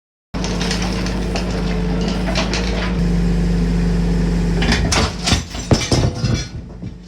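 Engine of a small construction machine running steadily, working harder from about three seconds in while it lifts a heavy excavator counterweight. Near the end comes a quick series of loud metal clanks and knocks, and then the engine settles back.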